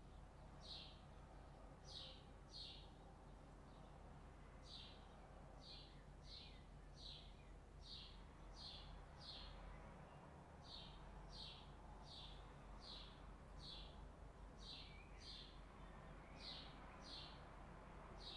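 A small bird chirping repeatedly and faintly: short, high, slightly falling chirps, often in pairs, about one to two a second.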